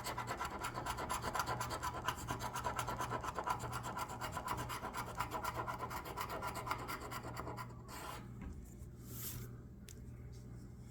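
Scratch-off lottery ticket being scratched in quick back-and-forth strokes, stopping about three-quarters of the way through, followed by a couple of light rubs.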